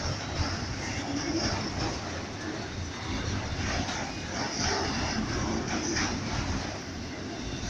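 Freight train rolling by: a steady low rumble with scattered clacks of wheels on the rails.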